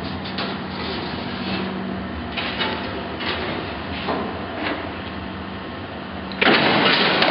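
A Wysong power shear running: a steady motor hum with a few scattered clicks and knocks, then a louder, noisy stretch of about two seconds near the end.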